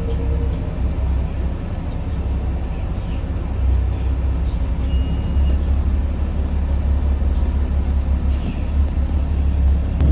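Cabin noise of a Yutong ZK6128HG diesel city bus under way: a steady deep rumble of engine and road, growing a little louder about four seconds in, with a thin high-pitched whine that comes and goes.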